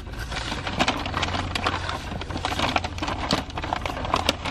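Crinkling and crackling of paper fast-food packaging as a takeout bag and wrappers are handled, many irregular sharp crackles over a steady low hum.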